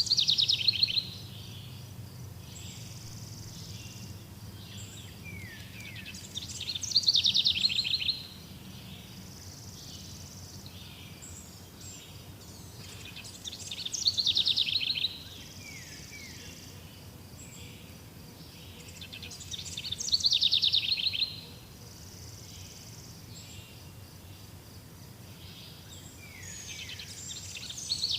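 A songbird repeating the same short song about every six to seven seconds: a rapid high trill falling in pitch, each lasting a second or two. Between songs there is a steady faint background of forest ambience.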